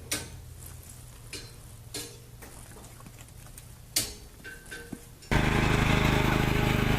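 A few scattered light taps and clicks over a low hum. About five seconds in it cuts suddenly to a loud, steady motor-like drone.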